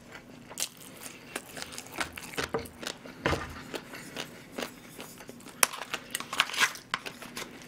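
Close-miked chewing and wet mouth sounds, with scattered light clicks and scrapes of a wooden spoon in a plastic sauce cup. The clicks grow busier about two-thirds of the way through.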